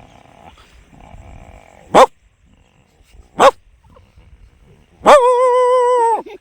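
A man imitating a dog with his voice: two short, sharp barks about two and three and a half seconds in, then a longer, steady, drawn-out cry of about a second near the end.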